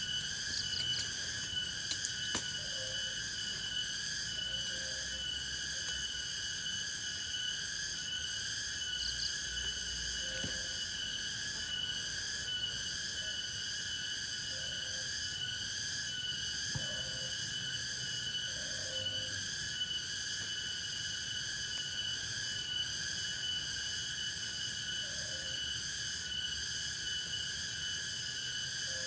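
Steady chorus of forest insects, a continuous high-pitched trilling in several shrill layers, with short low calls every couple of seconds, typical of frogs.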